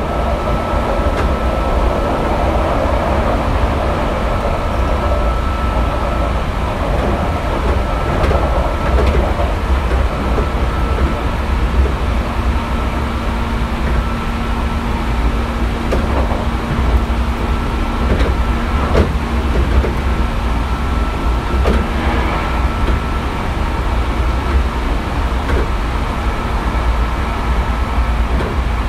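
Hankyu 3300-series electric commuter train running between stations, heard from inside a car: a steady low rumble of wheels on rail. A hum and a higher tone come and go, and a few sharp clicks fall near the middle.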